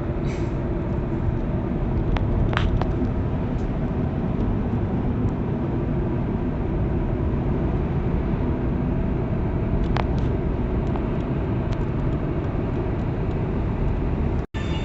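Steady low rumble of a car driving, the road and engine noise running evenly, with a few faint ticks. A momentary dropout near the end.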